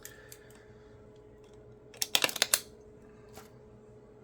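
A quick cluster of crisp clicks and rustles about two seconds in, from trading cards and their cardboard and foil packaging being handled, over a faint steady hum.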